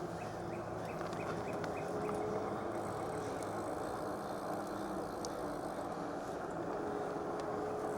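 Steady wind noise buffeting a clip-on mic with no windscreen, mixed with tyre noise, while riding a bicycle. A faint whine comes and goes.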